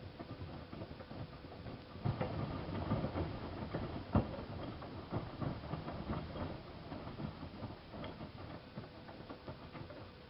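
Miele Softtronic W3657 washing machine's drum turning with laundry inside during the wash. A run of irregular knocks and clatter starts about two seconds in and dies down near the end, over a faint steady hum.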